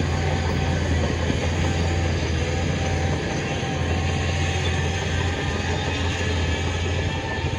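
Heavy diesel earthmoving machinery running steadily: a deep, continuous engine drone with mechanical noise over it.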